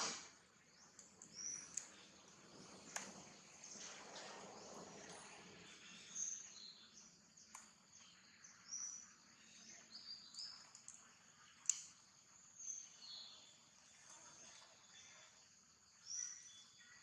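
Faint outdoor ambience with short, high bird chirps every second or so and a few sharp clicks.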